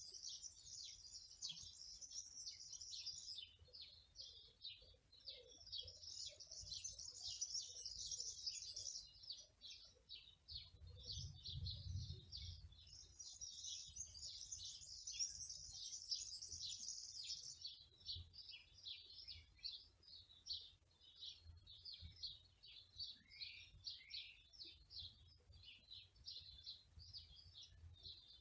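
Several small birds chirping and twittering without pause, with stretches of dense, rapid song. A soft low rumble comes about halfway through.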